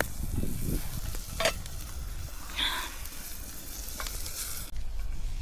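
Chopped onion and celery sizzling as they brown in a pan, with a couple of sharp clicks from a utensil against the pan. The sizzle drops away abruptly near the end.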